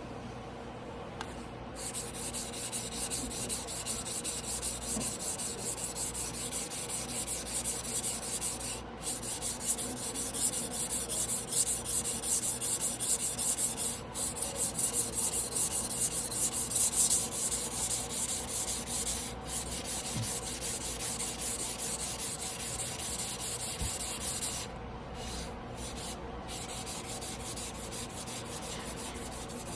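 Tojiro damascus carbon-steel yanagiba blade being hand-sharpened on a wet whetstone: steel scraping on stone in quick back-and-forth strokes, with three brief pauses. The strokes turn lighter about 25 seconds in.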